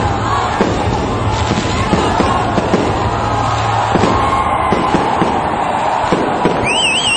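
Aerial fireworks shells bursting in a string of bangs and crackles over a continuous din. A warbling whistle rises and falls near the end.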